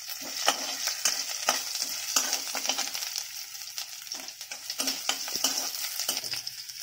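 Fennel seeds, garlic cloves and ginger sizzling in hot oil in a kadai, with a steady hiss, while a perforated ladle stirs them and scrapes and taps against the pan in frequent short clicks.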